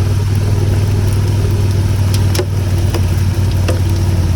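Motorcycle engine running steadily with a low, even hum, with a few faint short ticks over it.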